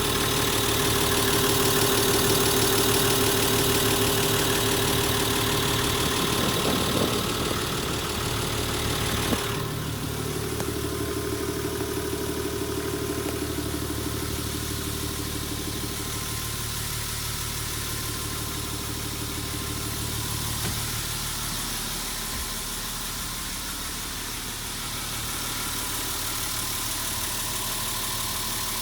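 Nissan Civilian bus's TD42 straight-six diesel engine idling steadily. About nine seconds in it gets abruptly quieter after a short click, then runs on evenly.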